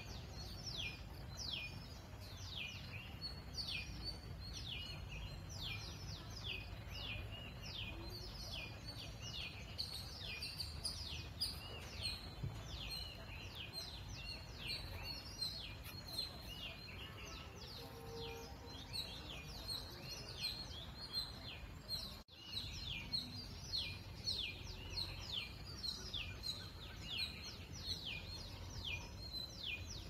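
Birds chirping continuously in quick, high, downward-sweeping notes, several a second, over a low steady rumble of wind noise. The sound cuts out for a moment about two-thirds of the way through.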